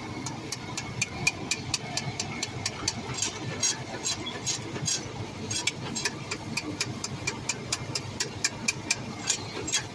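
Metal spatula repeatedly clinking and scraping against a steel karahi pan, quick irregular strikes several times a second, over a steady low rumble.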